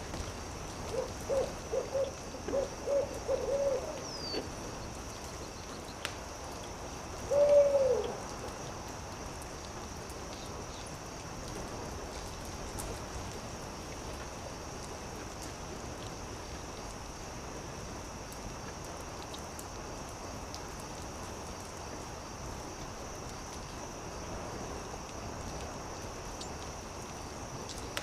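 An owl hooting: a quick run of about eight short hoots, then a longer, louder hoot that falls away at its end, over a steady background hiss.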